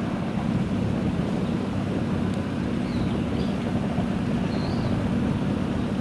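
Old car's engine running steadily at idle, with wind on the microphone.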